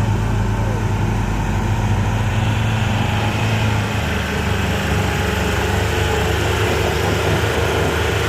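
Diesel truck engines working hard on a steep climb: a steady, loud low drone whose note shifts about four seconds in.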